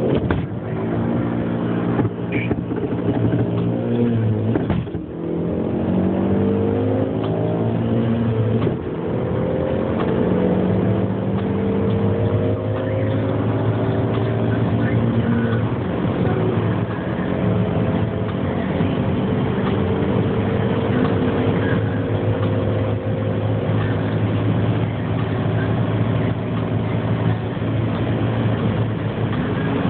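Alfa Romeo GT 2.0 JTS's four-cylinder petrol engine under full-throttle acceleration, its note climbing through each gear and dropping at the gear changes. The climbs grow longer in the higher gears.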